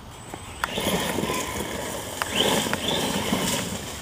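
Redcat Volcano electric RC truck driving over rough ground: a scraping, crunching run of tyre noise that starts with a knock about a second in, with the motor whining up and down briefly near the middle.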